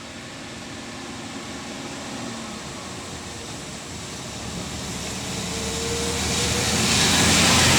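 Loaded dump truck approaching on a rain-soaked road: its diesel engine running under the hiss of tyres through standing water, growing steadily louder until it passes near the end.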